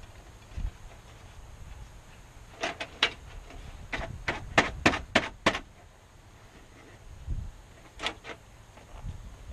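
A quick run of sharp clicks and knocks, about eight of them over a few seconds, then two more near the end, over a low steady background.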